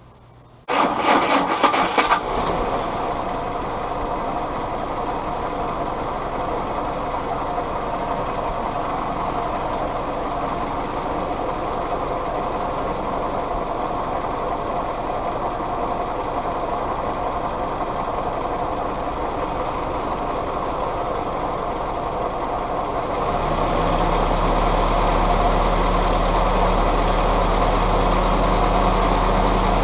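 Willys L134 Go Devil four-cylinder flathead engine firing up about a second in, then running steadily with its vacuum advance refitted. About 23 s in it grows louder, and near the end its pitch rises slightly as the engine speeds up.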